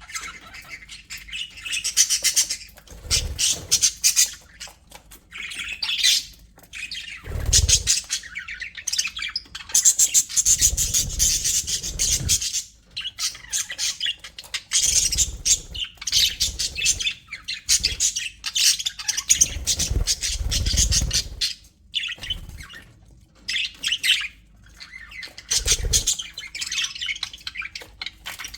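A group of budgerigars chattering and warbling in fast, scratchy runs of chirps and squawks, with short pauses. There are several brief low thumps in between.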